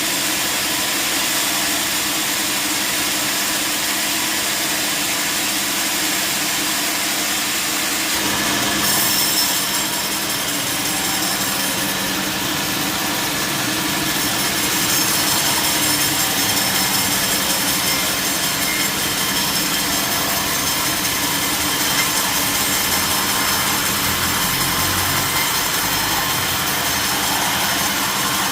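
Sawmill saw running and cutting through a large log, a steady machine noise. About nine seconds in, a higher cutting noise joins it and carries on.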